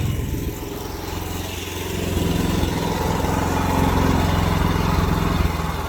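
Small engine of an AGT mini excavator running steadily, a little louder from about two seconds in.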